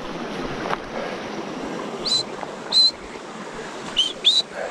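Steady rush of a flowing creek, with four short high chirps, two in the middle and two near the end.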